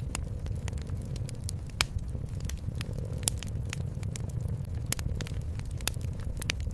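Wood fire crackling in a fireplace, with irregular sharp pops over a steady low rumble, mixed with a cat purring.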